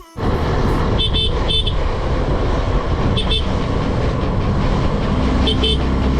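Vehicle horns tooting in short beeps, in little groups several times, over the steady running of engines in a traffic jam.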